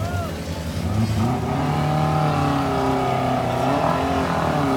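An off-road 4x4's engine running, its pitch rising and falling slightly, a little louder from about a second in.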